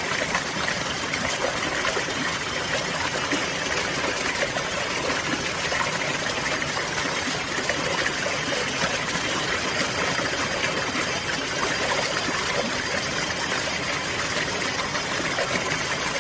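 Running water: a stream flowing and trickling steadily, an even, unbroken wash of water sound.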